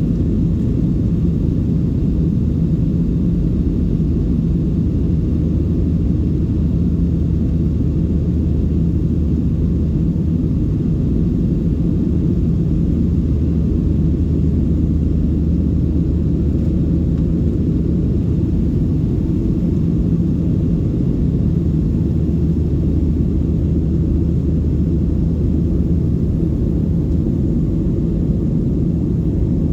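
Steady low rumble of a Boeing 737-700's CFM56-7B jet engines and airflow heard inside the passenger cabin, with a constant low hum and no change in engine pitch.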